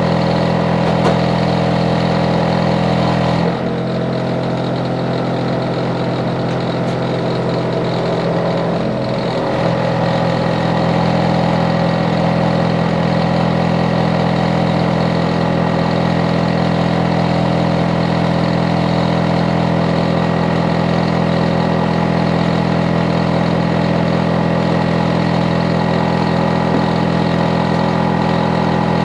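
Neighbour's Hitachi air-conditioner outdoor unit running: a steady machine hum of compressor and fan made of many held tones, which the neighbour finds too energetic, a noise nuisance. About three and a half seconds in, the deepest rumble drops away, and it returns some six seconds later.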